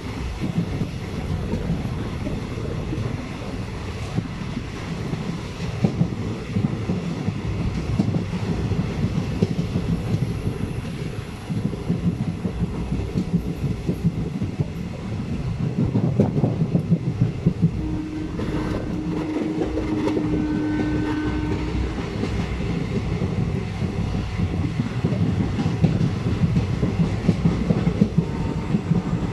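Passenger train running, heard from on board: a steady rumble of the wheels with irregular clattering over the rail joints. A brief steady tone sounds about two-thirds of the way through.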